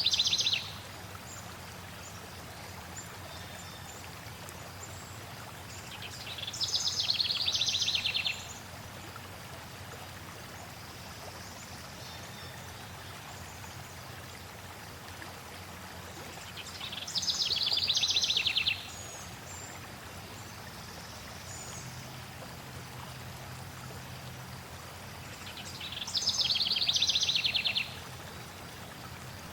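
Flowing stream with a songbird repeating the same rapid, trilled phrase of about two seconds, high-pitched and loud over the water, roughly every ten seconds (three full times, plus the end of one at the very start).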